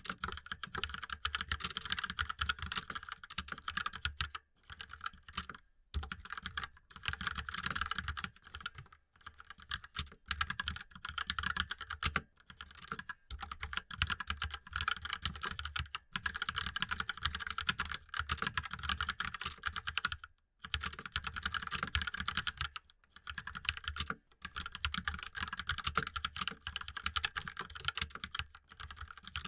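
Fast typing on a mechanical keyboard: a dense run of key clicks, broken by short pauses every few seconds.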